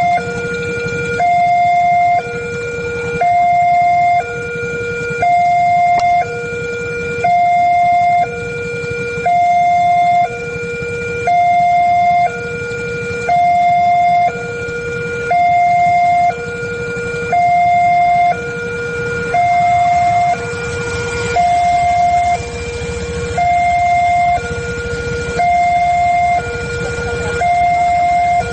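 Electronic warning alarm of an Indonesian railway level crossing, sounding a steady two-tone signal that alternates between a higher and a lower note about once a second, over a low rumble. It signals that a train is approaching and the barriers are closing or closed.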